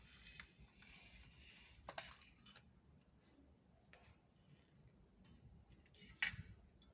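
Near silence with a few faint, sharp clicks and taps, the loudest about six seconds in.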